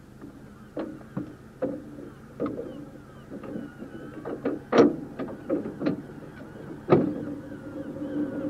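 Narrow-gauge electric tramcar running on its track: irregular knocks and clicks, the two loudest about five and seven seconds in, over a steady low hum.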